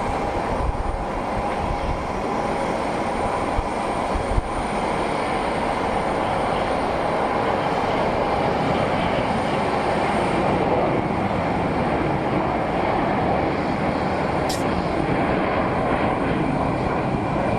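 Jet aircraft engines running steadily: a broad rushing noise with a faint high whine, and one brief click near the end.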